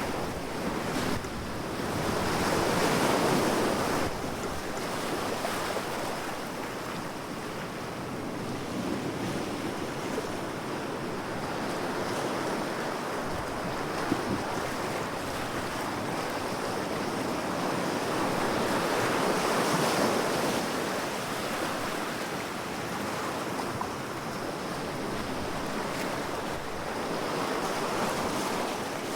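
Ocean waves washing onto a shore, a steady rushing surf that swells and ebbs, with louder breakers about three seconds in, near the middle and near the end. Wind buffets the microphone at times.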